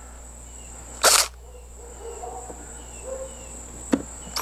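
Power drill fitted with a 9/64 bit spinning in one short burst about a second in, a pause between drilling screw holes. Faint high chirps follow over a quiet background.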